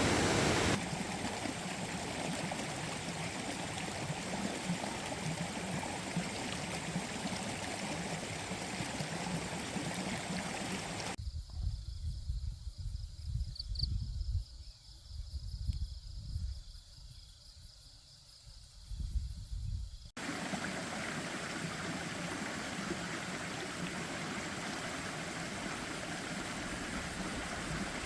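Steady rushing noise like running water or rain, interrupted for several seconds in the middle by low, uneven rumbling before the rushing noise returns.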